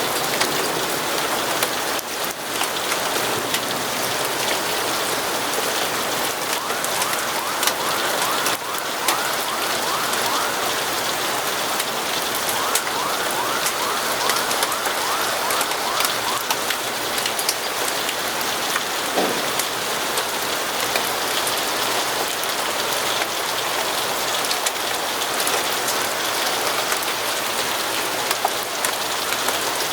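Steady rainfall with many small sharp ticks of drops striking a surface.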